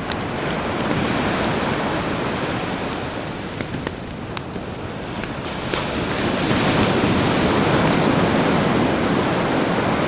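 Sea waves washing onto the shore, swelling to a peak about six seconds in, with campfire crackles as scattered sharp pops.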